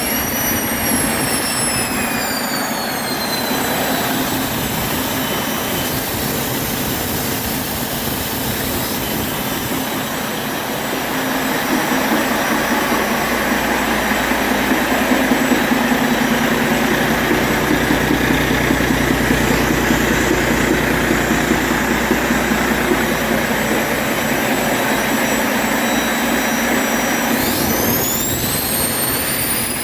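Cummins X15 15-litre inline-six diesel engine on a test run. A high whine falls over the first few seconds as the revs come down, then the engine runs steadily, louder through the middle, and near the end it revs up again with the whine rising.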